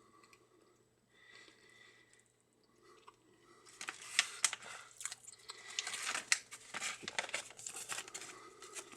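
Crinkly paper rustling and crunching from handling and eating a crispy breaded chicken sandwich, dense crackles starting about four seconds in after a few near-silent seconds.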